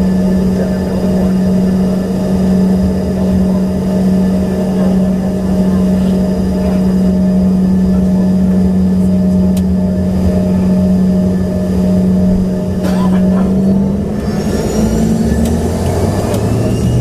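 Cabin sound of an Embraer ERJ-145XR's turbofan engines running with a steady low hum. About three-quarters of the way in, the pitch shifts and a high whine rises as the engines spool up.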